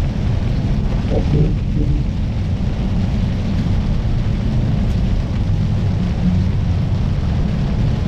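Steady low rumble inside a Kenworth semi truck's cab while driving: engine and road noise.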